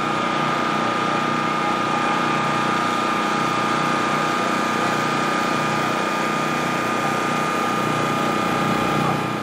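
A small motor or engine running steadily at an even speed, with a constant high whine over a lower hum.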